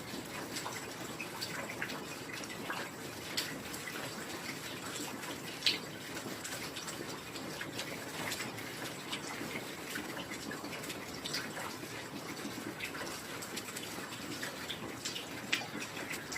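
Steady heavy rain with many scattered drop hits; a few sharper drops stand out, the loudest about six seconds in and another near the end.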